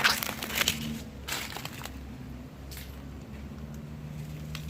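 Dry leaves and twigs crunching and cracking underfoot in a quick cluster during the first second and a half, then a few lighter crackles over a faint steady low hum.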